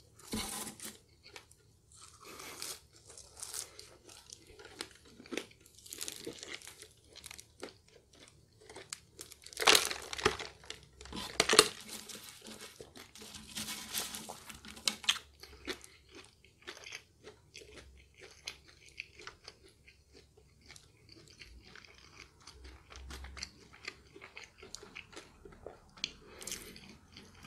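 Close-miked chewing of McDonald's french fries: irregular crisp crunches and mouth sounds, the loudest crunches coming about ten and eleven and a half seconds in.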